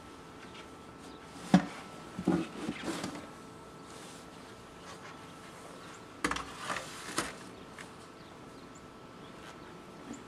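A faint steady hum broken by two brief clusters of short knocks or clicks, the first about a second and a half in and the second about six seconds in.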